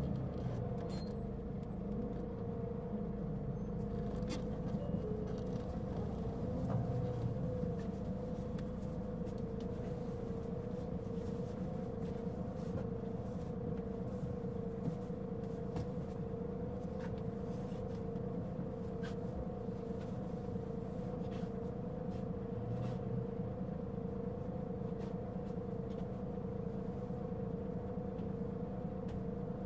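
Mitsubishi Fuso Aerostar city bus heard from inside, its diesel engine running with a low rumble and a strong steady whine with a slight waver. This bus is known for a considerable abnormal noise.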